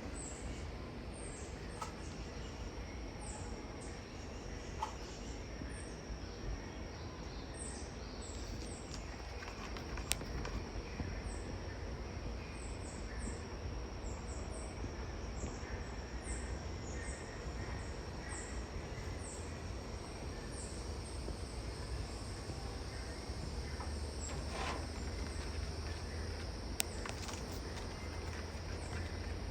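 Birds chirping: many short, high, falling chirps repeated throughout, over a steady background hum and noise.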